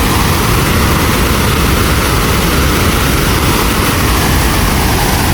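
A large waterfall: falling water making a loud, steady rush.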